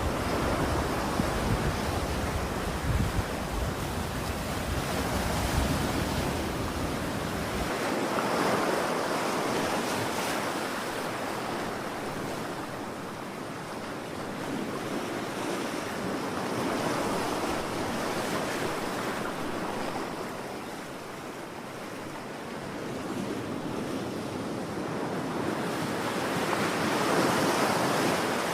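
Ocean surf: waves breaking and washing ashore, the hiss swelling and falling back about every eight to ten seconds. A deep rumble runs under it and stops abruptly about eight seconds in.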